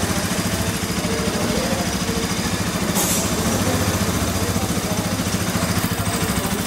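Bajaj Pulsar NS200's single-cylinder engine idling steadily with an even beat, running smoothly without misfires on its newly fitted throttle position sensor.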